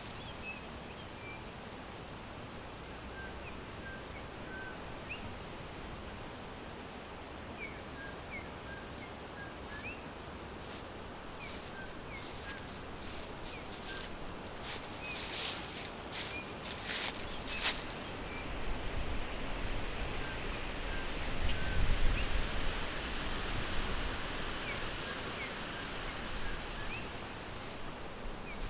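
Small forest birds chirping, short high notes scattered irregularly over a steady background hiss. Crackling rustles come in the middle, and a broad rushing noise with a low rumble swells about two-thirds of the way in.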